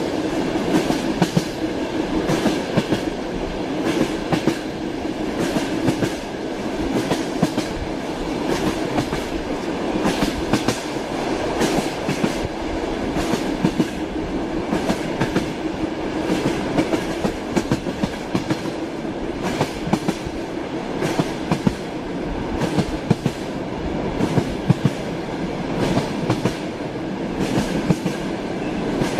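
Train running steadily, its wheels clattering and clicking over the rails, with continuous running noise underneath.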